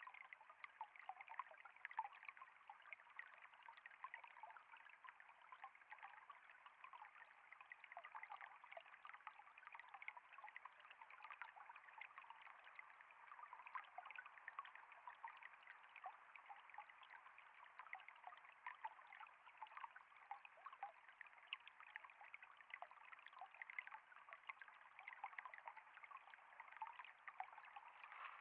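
Faint water steadily trickling and flowing, a constant stream of small splashes and bubbles with no breaks.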